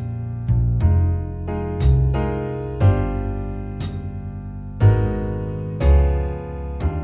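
Jazz backing track at a slow tempo: piano playing sustained chords over a bass line, with a new chord or bass note about once a second.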